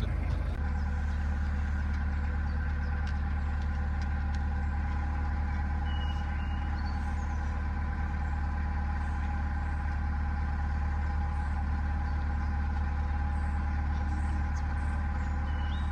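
Narrowboat engine running steadily while cruising along a canal: a constant low hum with a steady drone of tones above it.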